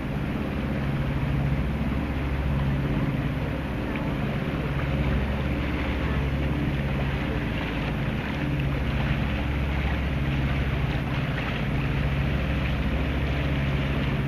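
A sailboat's inboard engine running steadily under way, a low even drone, with wind and water hiss over it.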